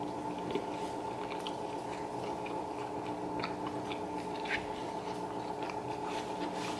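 Close-up mouth sounds of someone chewing a soft tortilla breakfast wrap, with small wet clicks and smacks and another bite a little past the middle. A steady hum runs underneath.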